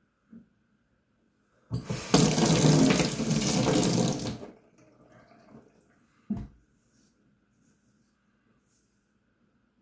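Tap running into a sink for about three seconds, the water used to rinse a shaving razor, then a single sharp knock a couple of seconds later. Faint short scratches follow near the end.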